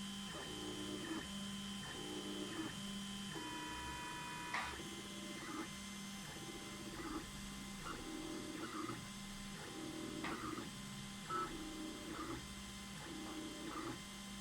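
Stepper motors of an Anet A8 3D printer converted into a pen-drawing CNC machine, whirring through a series of short moves of about half a second each with brief pauses between. A couple of sharp clicks cut through partway in.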